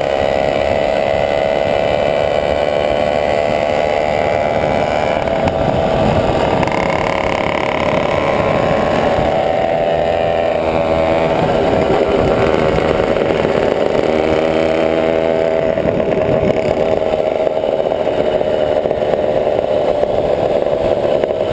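Motorbike engine running under way, its pitch rising and falling with the throttle, dropping to a deeper, slower note about halfway through and again a few seconds later.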